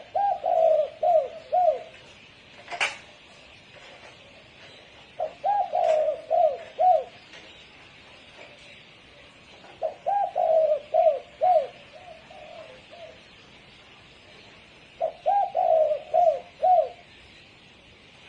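Spotted dove cooing: four phrases about five seconds apart, each a quick run of four or five short, hooked coos. A single sharp click comes about three seconds in.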